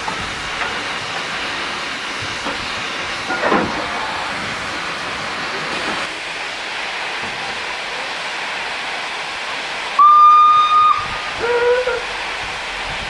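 Steam locomotive with a steady hiss of escaping steam. About ten seconds in comes a loud, short blast on its steam whistle, one steady note, and a second later a shorter, lower toot.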